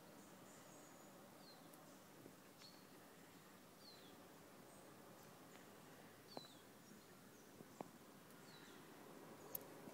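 Faint outdoor quiet with a small bird giving short, high, downward-sliding chirps every second or two. A few faint sharp clicks come in the second half, the loudest near the end.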